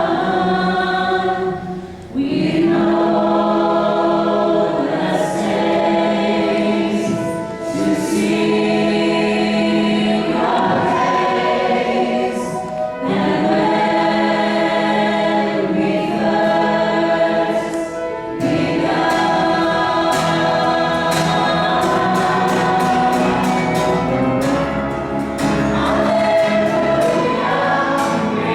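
A choir singing a hymn in harmony, in phrases of about five seconds with brief breaks between them.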